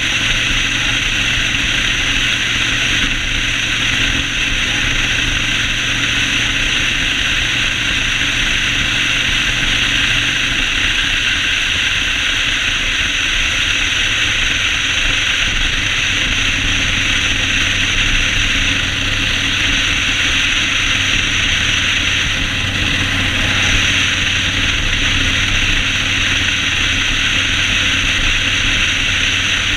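Yamaha Road Star 1600's V-twin engine running steadily while riding, under a constant loud rush of wind and road noise. The engine note drops slightly about ten seconds in.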